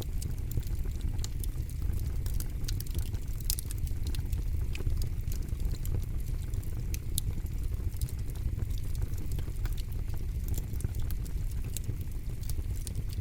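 Campfire crackling: frequent sharp, irregular pops and snaps of burning wood over a steady low rumble.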